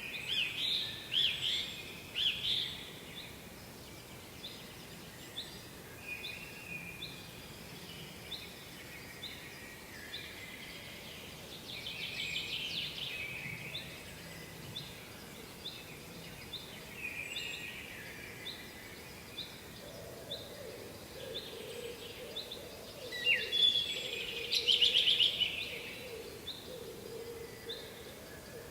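Songbirds singing in several bursts of song, with a short high call repeated about once a second in between, over a steady background noise. From about two-thirds of the way in, a low wavering hum joins.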